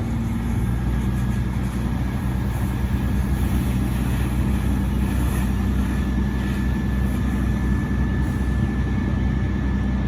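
A vehicle's engine idling steadily, a constant low hum with a faint steady whine above it.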